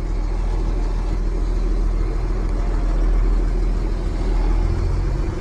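Truck engine running steadily with a low drone, heard from inside the cab of an old International potato truck.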